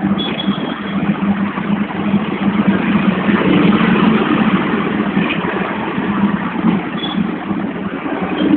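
Hong Kong tram running along the street: a steady rumble of its motor and wheels on the rails, with a brief high-pitched squeal just after the start and another near the end.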